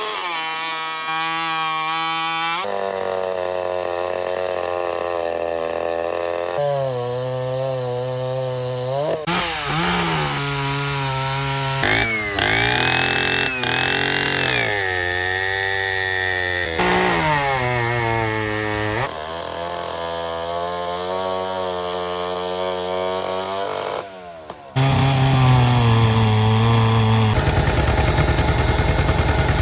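Vintage two-stroke chainsaws running and revving up and down, the sound changing abruptly every few seconds from one saw to another. Near the end, one saw runs loud at high revs with a fast, rapid pulsing.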